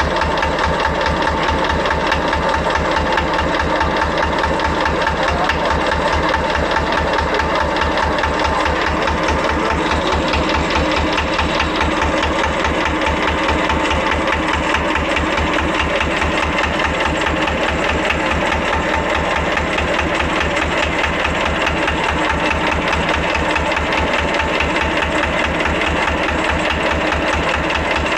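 Buck engine running steadily at an even speed, with a regular low firing beat.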